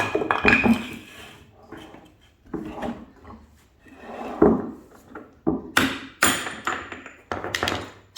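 A series of irregular metal knocks and clanks, some with a short ring, from tools working an old drum bearing out of an LG washer's heated tub housing.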